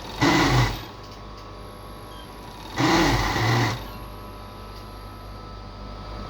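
Two short bursts of garment-workshop machinery running, the first about half a second long and the second about a second long, over a steady machine hum.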